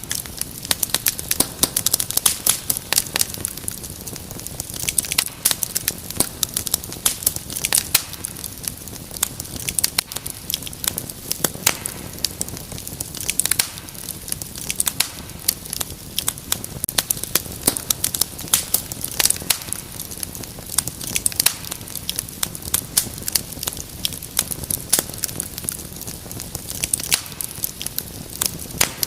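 Wood fire in a fireplace crackling and popping steadily: dense sharp snaps over a low continuous hiss.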